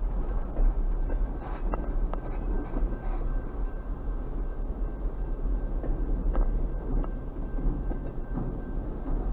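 Double-stack container freight train cars rolling slowly past: a steady low rumble of wheels on rail with a few sharp clicks, muffled as heard from inside a stopped vehicle.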